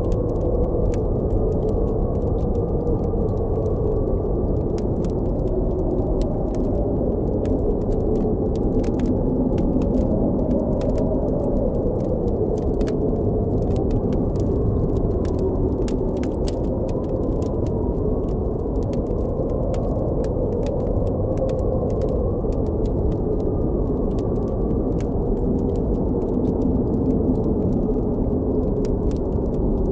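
Blizzard wind blowing steadily with a low moan that wavers slowly in pitch, and a campfire's small crackles and pops scattered throughout.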